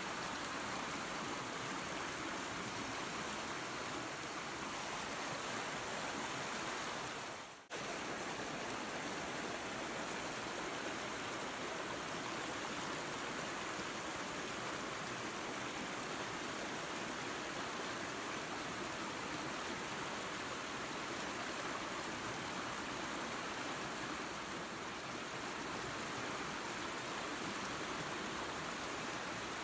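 Waterfall and creek water rushing in a steady, even roar. About seven and a half seconds in, the sound briefly fades down and then cuts back in abruptly.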